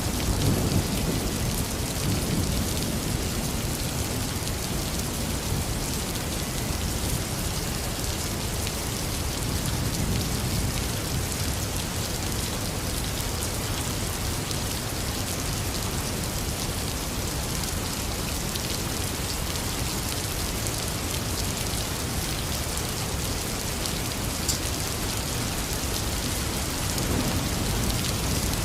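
Heavy rain falling steadily, with low thunder rumbling, strongest right at the start and again near the end.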